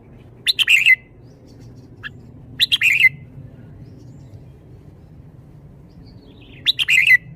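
Red-whiskered bulbul singing three short, quick chirping phrases a couple of seconds apart, with a faint single note between the first two.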